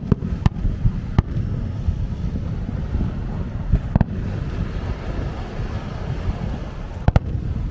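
Fireworks going off in scattered sharp bangs, about five in all, the last a close double bang near the end, over a steady low rumble of wind on the microphone.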